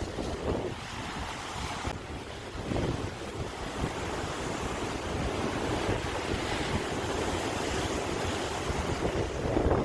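Sea waves washing in, a continuous rush that swells and eases, strongest near the start and again near the end, with wind buffeting the microphone.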